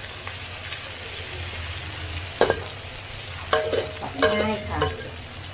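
Chopped garlic and chillies sizzling in hot oil as they are stir-fried, with a spatula knocking against the pan about four times in the second half.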